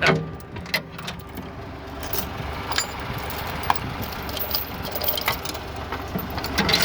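A vehicle engine idling steadily, with scattered light metallic clanks and rattles over it.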